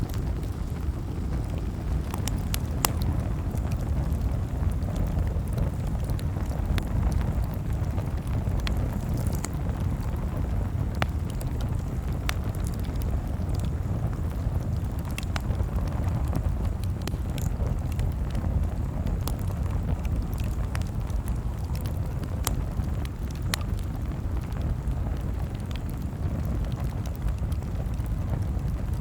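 Campfire crackling, with irregular sharp pops and snaps scattered over a steady low rumble.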